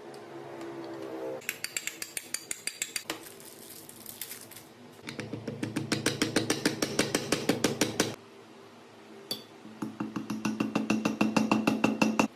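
Rapid, evenly spaced metallic clicks, about six to eight a second, each with a light ring, in three runs of a few seconds with short pauses between. A brief hum comes before the first run.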